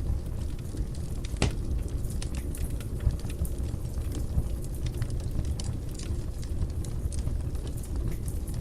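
A fire burning in a fireplace: a steady low rush of flames with frequent small crackles and pops, one sharper pop about a second and a half in.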